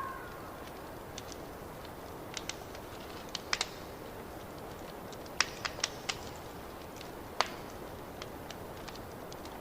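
Fireplace fire crackling: a steady soft hiss with irregular sharp pops, the loudest coming in a cluster a little past halfway.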